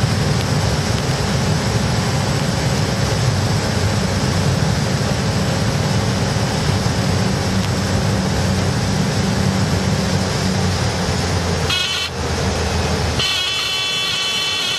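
Cabin noise of a Cessna 208B Caravan's turboprop engine and propeller, a steady drone under rushing air. About twelve seconds in the low drone falls away as power comes back, and a steady electronic warning tone starts, briefly at first and then continuously; this is typical of the stall warning horn sounding in the landing flare.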